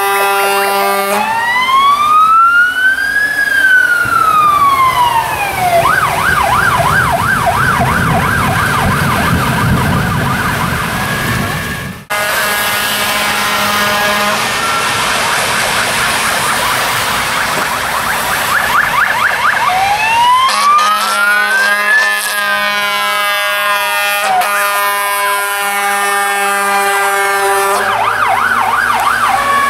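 Fire engine sirens on an emergency run, switching between a slow rising-and-falling wail, a fast yelp and long held horn-like tones. Vehicle engine noise runs underneath, and the sound breaks off abruptly about twelve seconds in before the sirens carry on.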